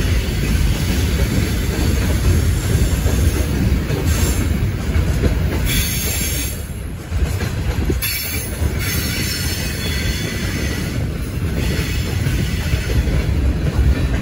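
Freight train running along the line: a steady heavy rumble of wheels on rails, with a high squeal from the wheels at times. The noise dips briefly a little past the middle, then comes back abruptly.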